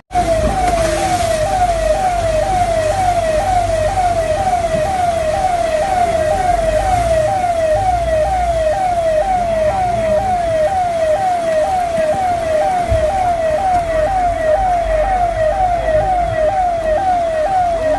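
Emergency vehicle siren sounding a rapid yelp: each note falls in pitch and repeats about three times a second, with a low rumble underneath.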